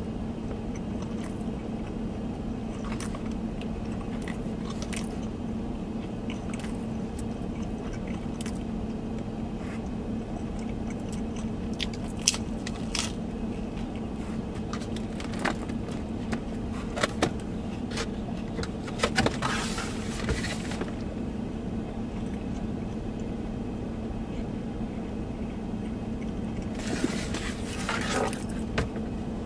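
Chewing and biting into crispy thin-crust pizza, with scattered small crunches and clicks, over a steady low hum in the car cabin. Near the end the cardboard pizza box rustles as it is handled.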